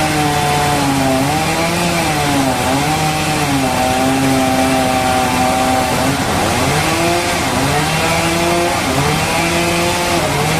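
Chainsaw cutting into a large log: its engine runs under load, its pitch sagging and recovering several times as the chain bites into the wood.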